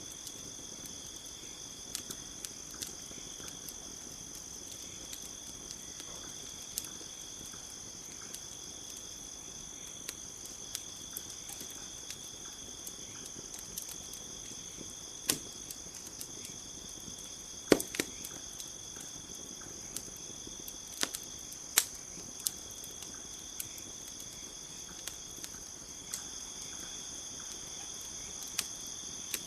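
Campfire crackling, with scattered sharp pops, the loudest about two-thirds of the way in, over a steady high chorus of night insects.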